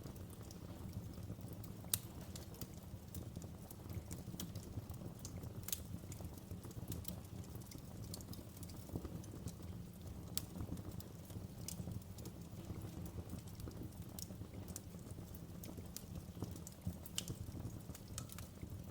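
Wood fire in a fireplace crackling: irregular sharp pops and snaps over a steady low rumble, with one louder pop about two seconds in.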